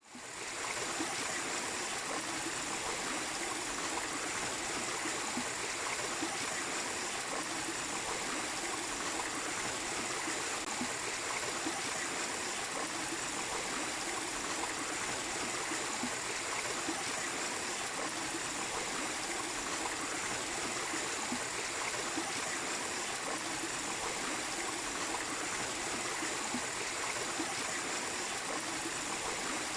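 Small waterfall splashing and running steadily over rocks, fading in over the first half second.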